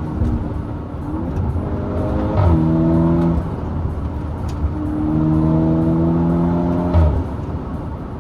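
Turbocharged 2.0 TFSI four-cylinder of a VW Golf GTI Edition 35 with a decat downpipe, pulling hard up through the revs, with two quick DSG upshifts, about two and a half seconds in and again near the end. At each shift the pitch drops sharply with a short crack from the exhaust.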